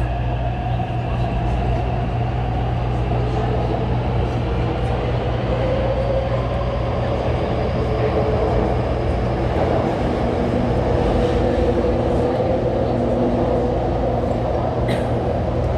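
Taipei Metro train running between stations: a steady low rumble from the wheels on the track with the electric traction motors' whine, several pitched tones that slowly slide down and then back up.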